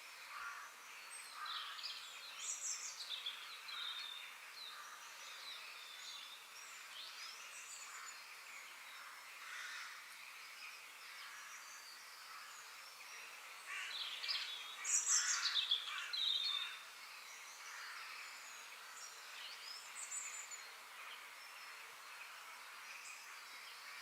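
Outdoor nature ambience: birds chirping and calling over a steady background hiss, with a louder run of calls about two-thirds of the way in.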